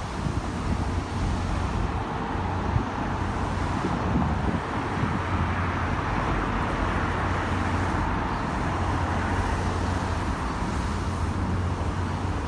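Steady outdoor background noise with a low hum, swelling in the middle and easing off, of the kind road traffic makes.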